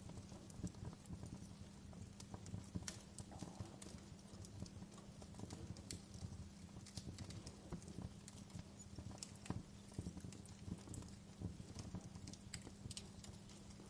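Wood fire burning in a fireplace, crackling and popping with irregular sharp snaps over a low steady rumble of the flames.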